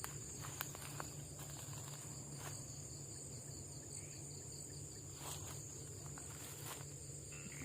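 Night insects trilling steadily in a high, continuous chorus, with a few faint scattered clicks and rustles.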